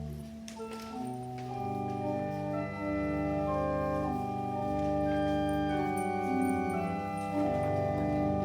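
Organ music: slow, sustained chords, each held a second or two before moving to the next.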